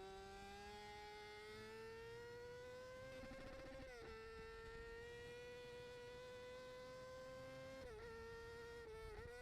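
Faint motorcycle engine whine, its pitch climbing slowly as it accelerates and dropping sharply about four seconds in and again near the end, as at gear changes.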